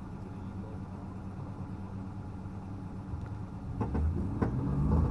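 An engine running steadily with a low hum, getting louder near the end, with a couple of short knocks about four seconds in.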